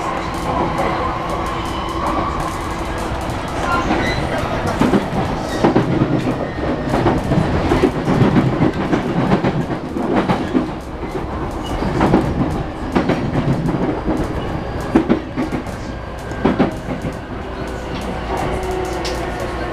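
E233-1000 series electric train running, with the whine of its Mitsubishi IGBT-VVVF inverter and traction motors under steady rumble, as it slows on the approach to a station. Through the middle, a run of sharp wheel clacks over rail joints and points.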